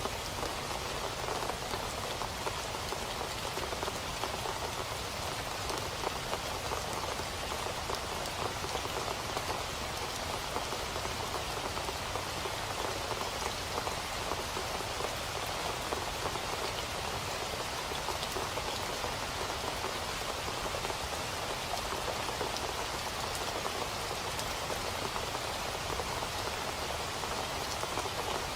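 Steady rain falling and pattering on a surface, an even hiss of many small drops without pause.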